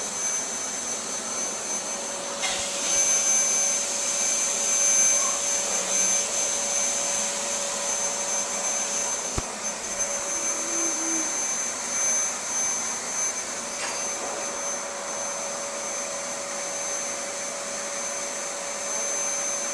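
Vacuum cleaner running steadily, a motor whine over a hiss. The whine grows louder and brighter about two and a half seconds in and settles back about nine seconds in, where there is a single click.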